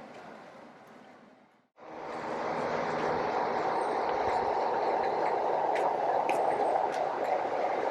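Railway train: a steady rumble with a faint low hum and occasional clicks. It starts suddenly about two seconds in, after a fainter background.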